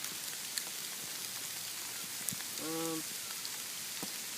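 Steady patter of sleet hitting the ground and surroundings, with scattered small ticks. A short hummed voice sound, like a brief strained grunt, a little under three seconds in.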